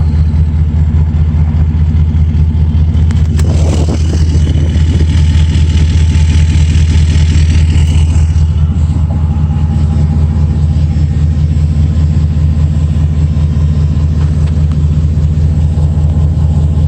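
2012 Ford F-350's engine idling through a 4-inch straight-piped exhaust: a loud, steady, deep drone with no revving.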